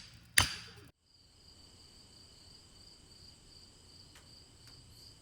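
One sharp whack about half a second in, the last of a quick series of hits. Then a steady, faint, high trilling of crickets or other night insects.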